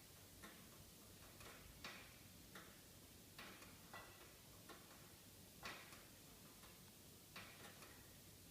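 Wood fire in a fireplace crackling faintly, with irregular sharp pops and snaps.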